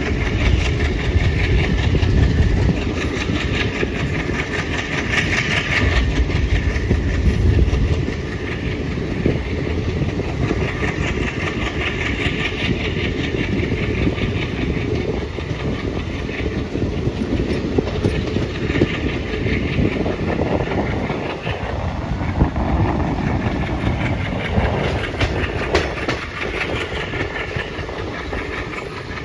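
Alco WDG-3A diesel-electric locomotive working, its turbocharged 16-cylinder ALCO 251 engine chugging as the train runs along the track. The low throb is heaviest for the first several seconds, then eases, with a slow rise and fall in pitch a little past the middle.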